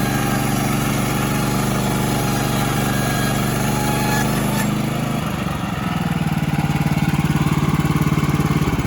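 Small gas engine of a Woodland Mills band sawmill running steadily; about five seconds in its sound changes to a more throbbing, pulsing tone.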